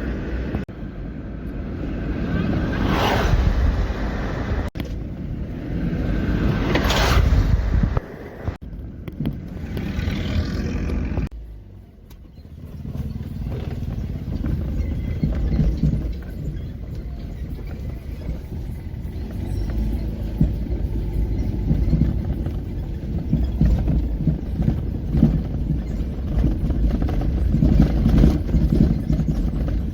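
Pickup trucks driving past on a road: two pass close by in the first several seconds, their engine and tyre noise swelling and fading. After that comes a steady low engine rumble.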